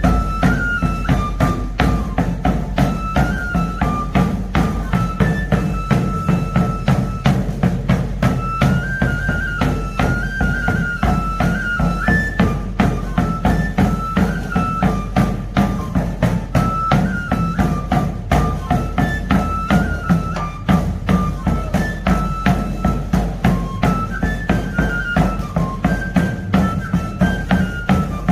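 Tamborilero's three-holed pipe and tabor played together: a high, stepwise pipe melody over a steady, rapid tabor beat.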